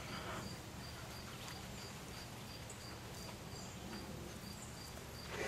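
An insect chirping steadily, a short high chirp about three times a second, over faint outdoor background noise.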